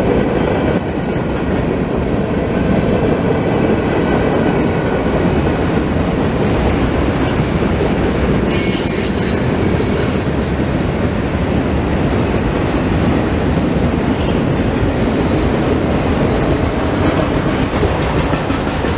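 Union Pacific freight train rolling past, a steady loud rumble of wheels on rail. Brief high-pitched wheel squeals rise above it four times.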